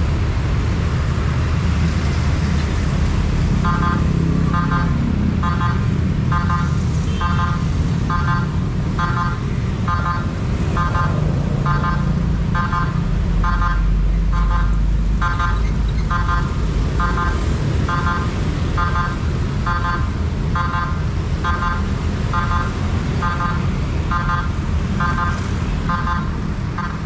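Railroad level-crossing electric warning bell starts a few seconds in and rings in a steady rhythm of about one stroke a second, over a constant low rumble of traffic.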